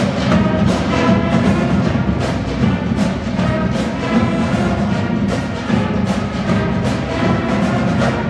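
High school marching band playing a stand tune: brass with a drumline keeping a steady beat.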